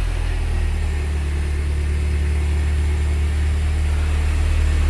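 R53 Mini Cooper S's supercharged 1.6-litre four-cylinder engine idling steadily, just after its first start on a newly fitted timing chain assembly.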